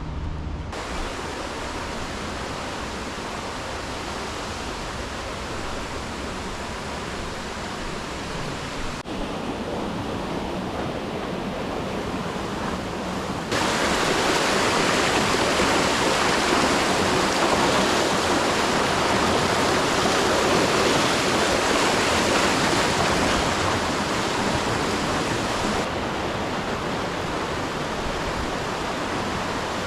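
Steady rushing-water noise, an even hiss with no distinct strokes. It steps suddenly louder a little before halfway through and drops back somewhat near the end.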